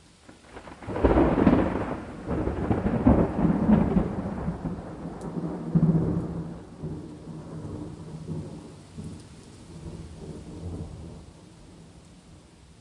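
A long roll of thunder that breaks about a second in, rumbles through several loud peaks over the next few seconds, then dies away slowly, over faint steady rain.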